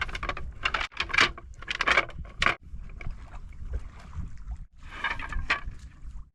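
Gusty wind buffeting the microphone over splashing water at the water's edge, broken off abruptly several times.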